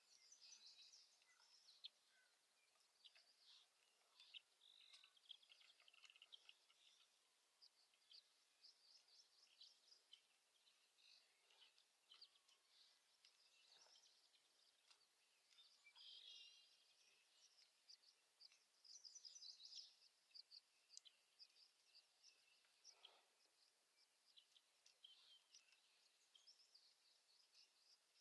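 Faint birdsong: several small birds chirping and trilling in quick, high-pitched phrases, with a few faint knocks now and then.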